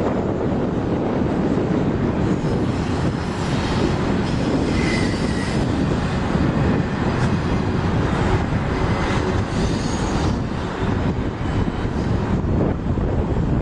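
Canadian National train rolling past: a steady, loud rumble of wheels on rail with scattered knocks, and a brief high wheel squeal about five seconds in.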